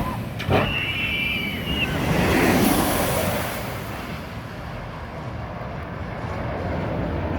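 Open-air park train at a station: a couple of knocks at the start, a brief high squeal about a second in, then a rush of noise that settles to a steady rumble.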